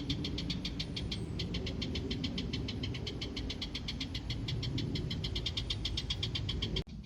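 Fiat 500 engine idling unevenly: a low rumble with a fast, even ticking of about eight ticks a second, the imperfect idle its owner notes. Both stop suddenly near the end.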